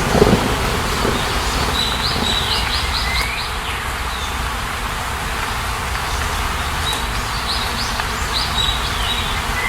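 Steady rain hiss with a small bird singing two quick phrases of high, falling chirps, one a couple of seconds in and one near the end. A brief low rumble comes at the very start.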